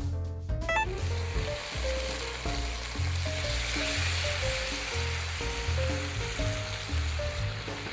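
Food sizzling in a hot pan, starting about a second in and stopping near the end.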